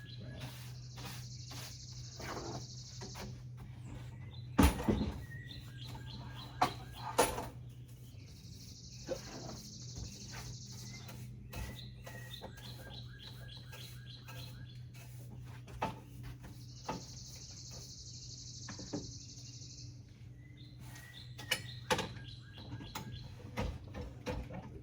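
Scattered knocks and clatter of things being handled and set down, loudest in a thump about five seconds in. A high buzz about three seconds long comes and goes roughly every eight seconds over a steady low hum.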